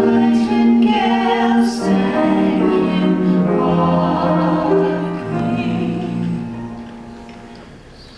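Ensemble of voices singing a slow ballad in harmony, holding long notes that change every second or two and fade away over the last few seconds.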